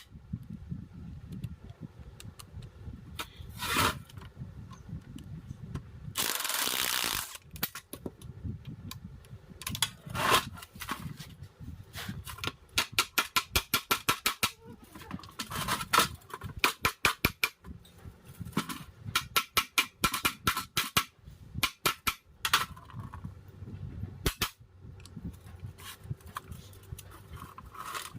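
Hand tools knocking and tapping on metal parts of a starter motor under repair, coming in quick runs of sharp taps at a few per second, with a short hissing burst about six seconds in.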